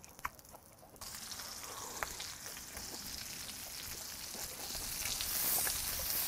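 Beef intestines sizzling in a frying pan: a dense, crackling hiss that starts abruptly about a second in and grows louder toward the end. A couple of sharp ticks are also heard.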